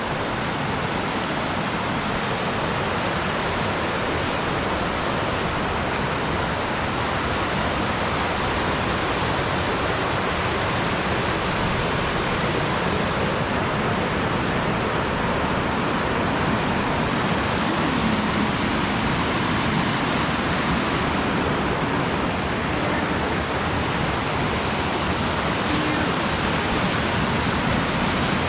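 Small creek waterfall rushing steadily, a loud, even roar of falling water close by.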